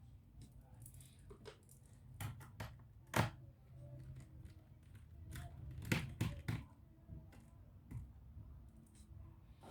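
Irregular clicks and knocks of hands handling a laptop's plastic case, parts and small tools. The loudest knock comes about three seconds in, with a quick cluster of clicks around six seconds.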